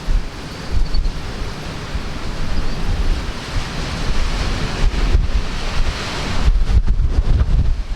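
Strong gusting wind of a severe thunderstorm squall line, buffeting the microphone in gusts that swell and ease.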